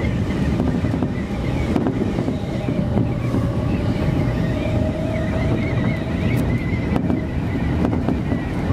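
Electric commuter train running at speed, heard from inside the front car: a steady rumble of wheels on rail with a few faint clicks and a faint wavering whine.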